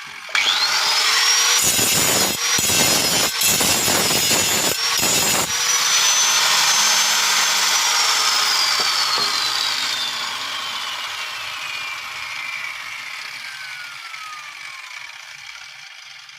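Angle grinder switched on, its whine rising quickly as the disc spins up, then grinding against the thin metal workpiece for about four seconds with a few short breaks. It is then switched off, and the whine falls slowly in pitch as the disc coasts down.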